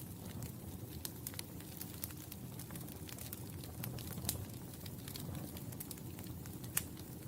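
Wood fire burning in a fireplace: a steady low rumble of flames with frequent small crackles, and a sharper pop about four seconds in and another near the end.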